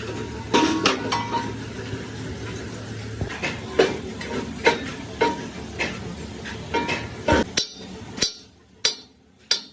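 Hammer blows on metal, about a dozen irregular strikes, some ringing briefly, over a steady background hum that stops near the end.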